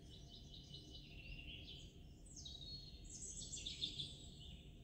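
Birds calling faintly, a few high chirping calls with the loudest run a little past halfway, over a low steady background noise.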